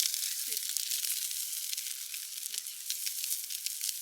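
Food frying in a hot pan: a steady sizzle with many small crackling pops.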